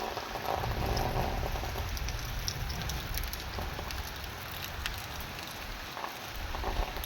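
Heavy rain falling, a steady hiss with many small drop ticks, and a low rumble underneath for most of it.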